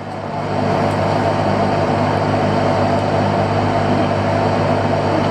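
Fishing boat's engine running steadily: a low drone with even overtones under a broad hiss, picking up slightly about half a second in and then holding level.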